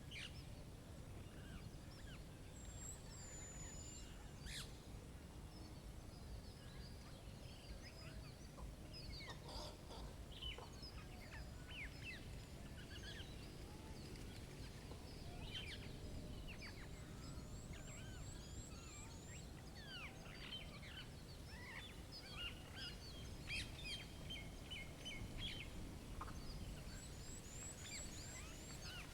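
Several wild birds chirping and calling, with short scattered chirps and a couple of quick high-pitched trills, over a faint, steady low background rumble.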